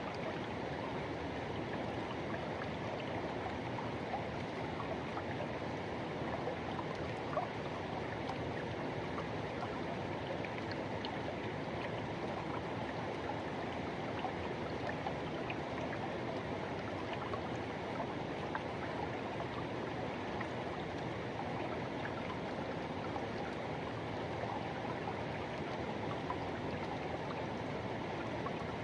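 Forest river rushing and gurgling over rocks in a steady, unbroken wash of water noise, with small splashes here and there.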